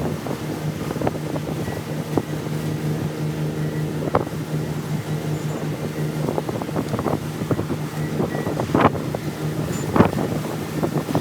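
A steady motor hum, with scattered clicks and knocks over it, two of them louder about nine and ten seconds in.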